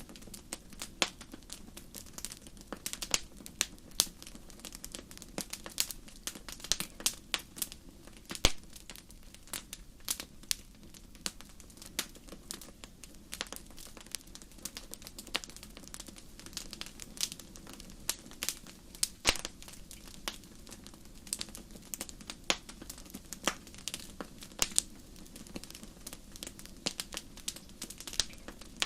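Fireplace fire crackling: irregular sharp pops and snaps, a few of them louder, over a low steady rush of the flames.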